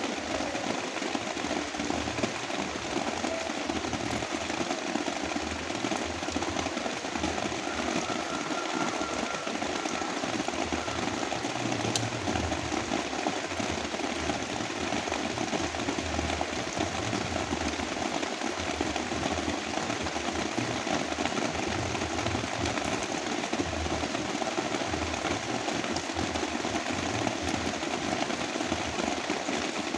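Heavy rain falling steadily, mixed with a layer of brown noise: an even rushing hiss with an uneven low rumble underneath.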